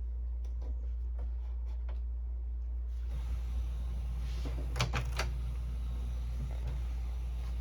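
Canon Pixma inkjet printer's mechanism starting to run about three seconds in, a whirring motor with a cluster of clicks about five seconds in as it feeds paper and prints. A steady low hum runs underneath.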